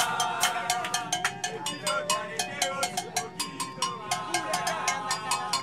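A group of voices chanting a football song together over rapid rhythmic clapping and banging, several hits a second, in a celebration aboard a plane.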